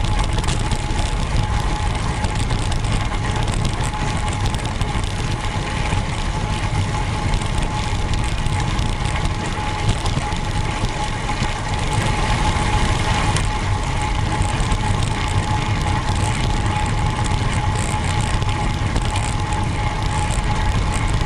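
Steady riding noise from a road bike: a constant rushing hiss with a thin, unchanging whine held throughout.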